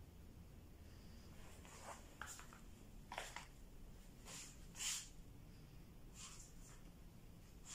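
Near silence: faint room tone broken by several brief, soft rustling noises, the loudest about five seconds in.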